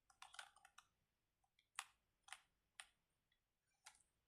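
Faint, light clicks from a plastic fidget toy being handled: a quick run of small clicks near the start, then single clicks every half second or so.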